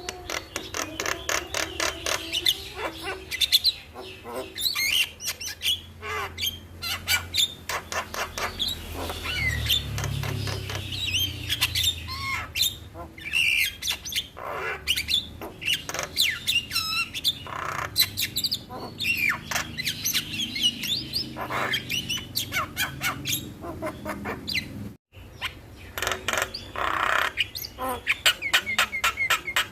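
Javan myna (jalak kebo) song: fast chattering with rattling clicks, harsh notes and short whistled glides, continuous and busy. The sound cuts out for a moment about 25 seconds in.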